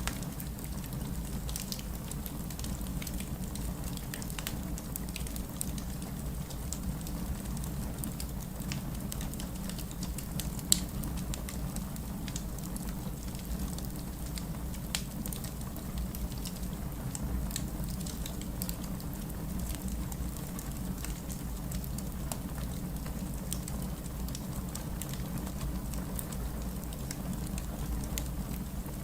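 Wood fire crackling with scattered small pops, blended with steady distant city rain. One louder pop comes about eleven seconds in.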